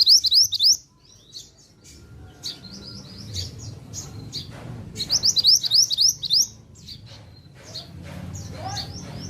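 Mantenan songbird singing in full, energetic song: two quick runs of sharp rising notes, one right at the start and one about five seconds in, with scattered shorter chirps between.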